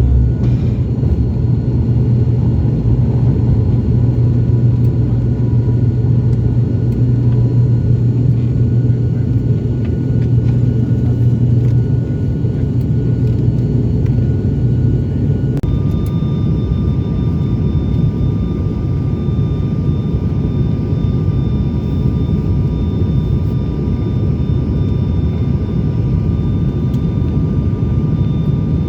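Cabin noise of an ATR 72-600's twin Pratt & Whitney PW127 turboprops: a loud, steady drone of engines and propellers with a strong low hum. The steady engine tones change to new pitches about halfway through, and the low hum eases off shortly before.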